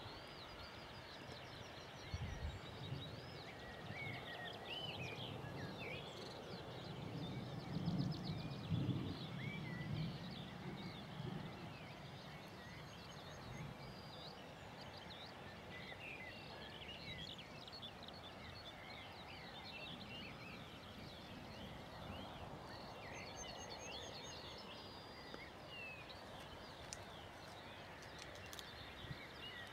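Songbirds chirping and singing continuously over a quiet open-country background. A low rumble swells and fades between about seven and eleven seconds in.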